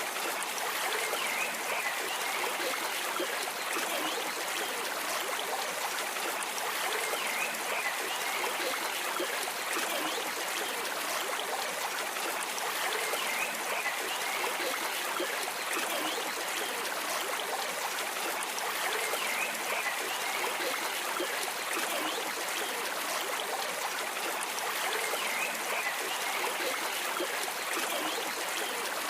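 A stream flowing and trickling steadily.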